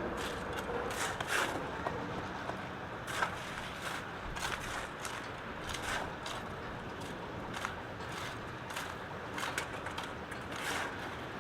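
Steady rushing noise with faint, irregular clicks scattered through it.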